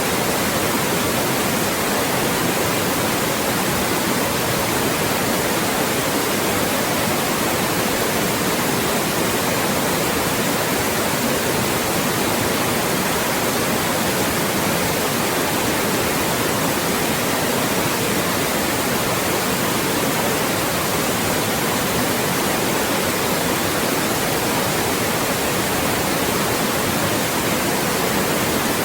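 Loud, steady synthetic white noise: an even hiss across all pitches, unchanging throughout.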